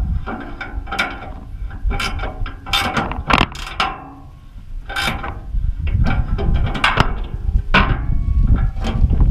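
Irregular metallic clicks and clanks as parts of a motorcycle hitch rack are handled and fitted together, over a low rumble.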